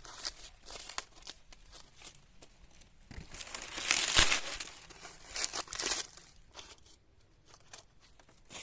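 Crinkling, rustling sounds in irregular bursts, loudest about four seconds in, with scattered clicks.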